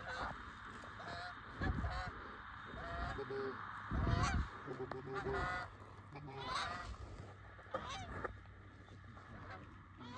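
Canada geese honking and clucking: many short calls in quick succession. Two low thumps come about 2 s and 4 s in.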